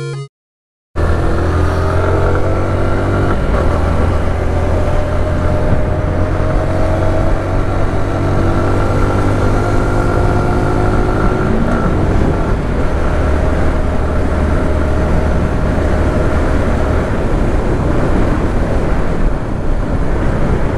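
Yamaha R15M's 155 cc single-cylinder engine running as the motorcycle is ridden, heard from the rider's seat with wind and road noise. The engine note holds fairly steady, with small rises and falls in pitch, and starts about a second in.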